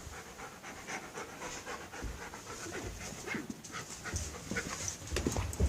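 Dog panting quickly, with a few low thumps in between.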